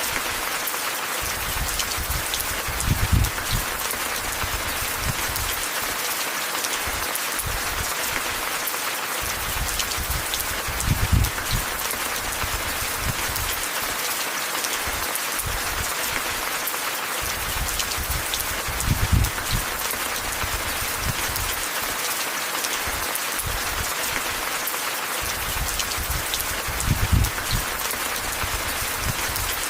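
Steady rain falling in a constant hiss, with a short low rumble rising out of it about every eight seconds.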